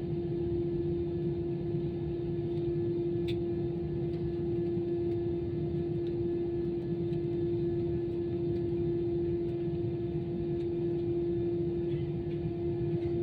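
Airbus A320-214 cabin noise while taxiing after landing: a steady low rumble from the idling engines and air conditioning, with a constant hum and a faint click about three seconds in.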